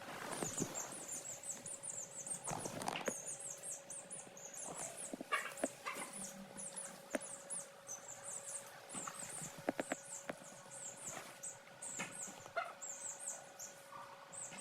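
Young chicks peeping: a dense, continuous stream of short, high-pitched chirps, with scattered light taps and scratches.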